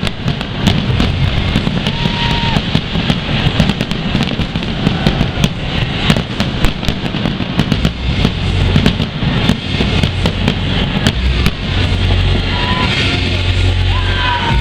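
Fireworks display: a dense run of cracks and bangs, several a second, over the noise of a large crowd, with a steady low rumble coming in about halfway.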